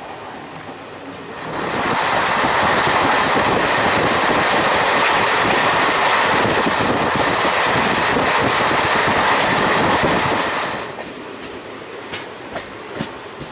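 Yelahanka–Kacheguda Express running on the rails. A much louder rushing rattle starts suddenly about a second and a half in, holds steady for about nine seconds, then drops back to the quieter running noise. A few short wheel squeaks come near the end.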